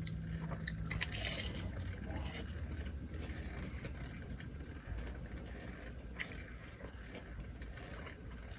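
Faint eating sounds: chewing with scattered small clicks and crackles, over a steady low rumble.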